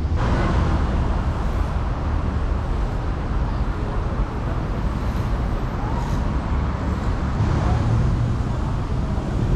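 City street traffic: a steady rumble of cars and buses passing.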